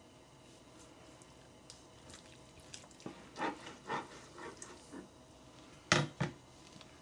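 Handling noises: a few faint clicks, then a run of short knocks and rustles, and near the end two sharp knocks in quick succession, the loudest of the lot.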